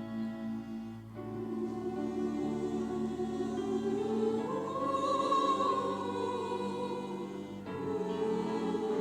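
Church choir anthem with orchestral accompaniment: held chords that change about a second in and swell louder around the middle.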